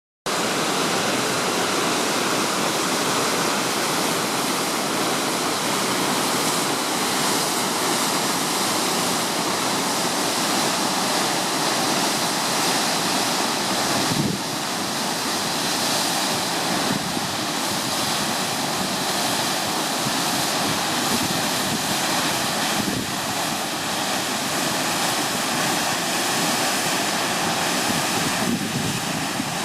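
Waterfall rushing, a steady, even roar of falling water, with one brief bump about 14 seconds in.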